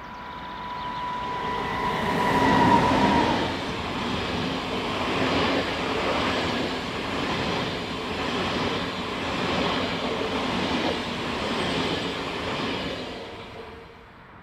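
A train passing at speed: a steady whine grows louder and drops slightly in pitch as the front of the train goes by about three seconds in. The cars then roll past for about ten seconds, and the sound fades away near the end.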